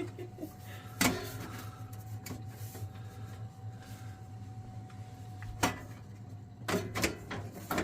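Biasi combi boiler running with a steady low hum and a faint steady whine, which stops about five and a half seconds in. A few sharp clicks and knocks, from parts being handled, fall about a second in and again near the end.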